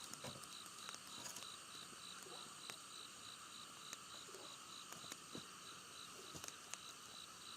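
Insects chirping in a steady pulsing rhythm, about three chirps a second, with a steady high buzz beneath. Scattered faint clicks and knocks are heard now and then.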